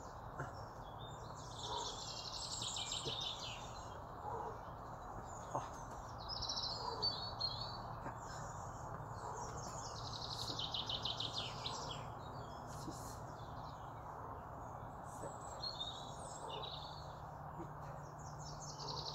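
Small birds singing: short, fast trilling phrases every few seconds over a steady low background hum.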